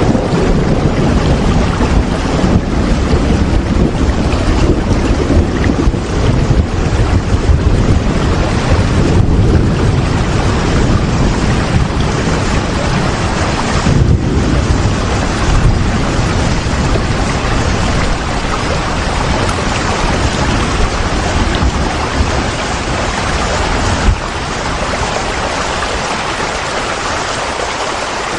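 Steady heavy rain with gusting wind: a dense, even hiss over a low, wavering rumble. A few seconds before the end there is a single click and the low rumble eases a little.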